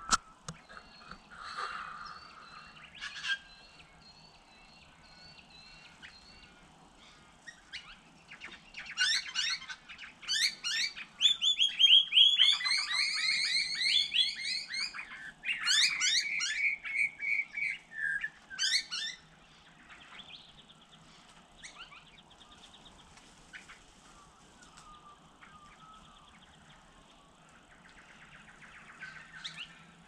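Wild birds calling: scattered thin chirps, then a loud, rapid run of calls from about eight seconds in to nearly twenty, after which only faint chirps remain.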